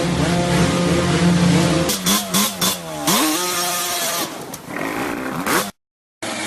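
Motorcycle engine running steadily, then a few sharp knocks about two seconds in, followed by the engine revving up, holding and dying away before the sound cuts off briefly near the end.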